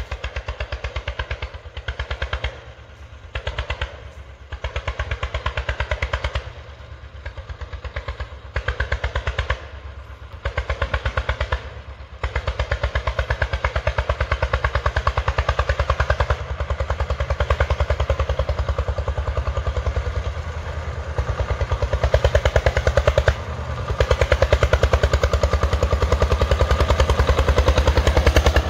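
Tractor engine running with a rapid, even pulse. It comes in short stretches with dips between them for the first dozen seconds or so, then runs steadily.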